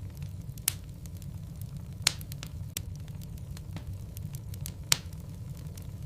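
Wood fire burning in a fireplace: a steady low rumble of the flames with scattered sharp crackles and pops from the burning logs, three of them louder, near the start, about two seconds in and about five seconds in.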